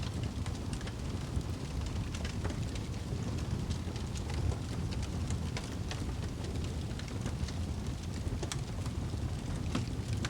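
Fireplace fire crackling: irregular sharp crackles and pops over a steady low rush.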